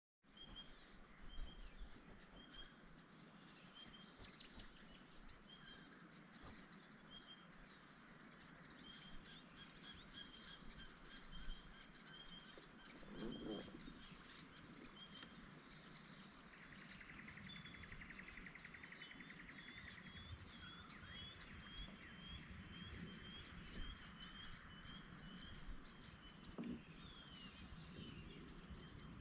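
Faint birdsong: a bird repeating short high chirps, about one or two a second, quickening later into a fast run of down-slurred notes, with a buzzy trill partway through.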